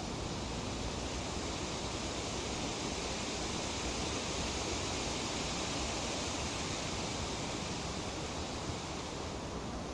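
Wind rustling through tree leaves, a steady hiss that swells a little midway and eases near the end.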